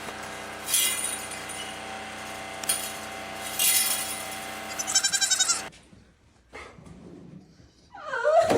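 An animal crying out several times over a steady hum, then a louder, longer wavering cry near the end.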